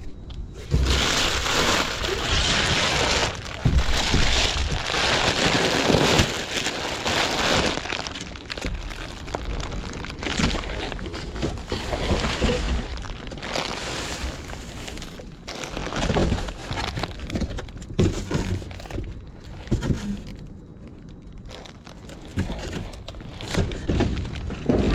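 Rummaging through a dumpster: loud crinkling and rustling of trash for the first several seconds, then scattered knocks and clatters as items are moved about.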